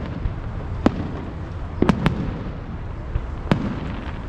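Fireworks bursting at a show: four sharp bangs, two of them in quick succession near the middle, over a steady low rumble.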